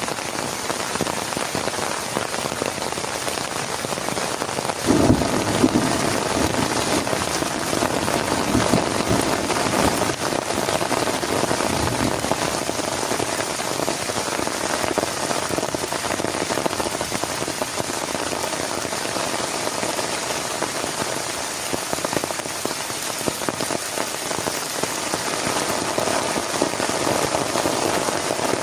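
Heavy rain falling steadily, an even hiss of drops hitting a surface. There is a brief louder low rumble about five seconds in, and a few weaker low bumps over the following seconds.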